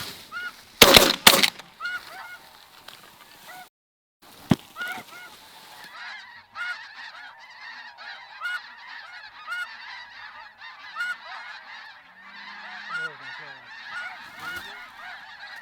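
Snow goose calls, many short honks repeating throughout. A quick volley of shotgun shots comes about a second in, and a single shot follows a few seconds later.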